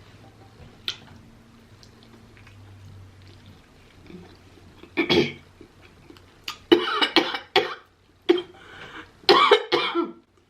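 A person coughing in a run of short fits, which begin about halfway through after a quieter stretch, set off by a taste of fiery hot, spicy food.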